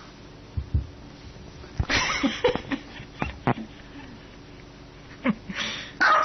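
A small dog barking with short, sharp barks, one about two seconds in and another near the end.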